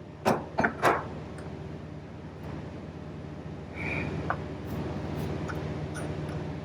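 Three quick hammer blows on a steel punch, about a third of a second apart, driving a bearing race out of the John Deere 24T baler's wheel hub. After them a steady low hum carries on, with a few faint ticks.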